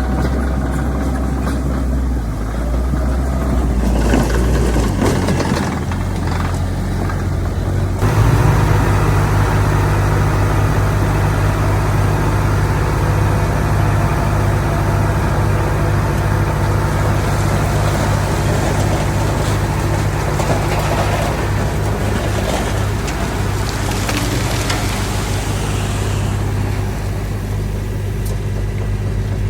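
Heavy diesel engines of earthmoving machinery (bulldozer and dump trucks) running steadily. About eight seconds in, the engine note steps up abruptly to a higher pitch and holds there.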